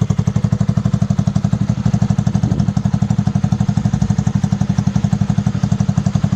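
Yamaha Jupiter MX King's single-cylinder four-stroke engine idling through an aftermarket racing exhaust, with a steady, even exhaust beat.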